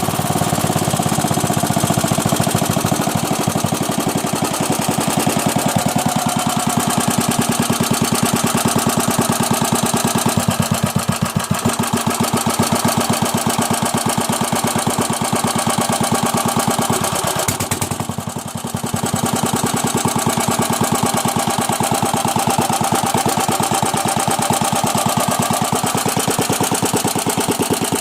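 Bernard W 110 bis engine running steadily with a rapid, even firing beat. The beat dips briefly in loudness about eighteen seconds in, then picks back up.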